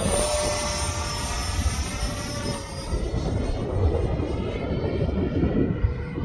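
Whine of the 80 mm electric ducted fan of a Freewing Avanti S RC sport jet in flight, a high tone that fades about halfway through as the jet draws away. Wind rumbles on the microphone throughout.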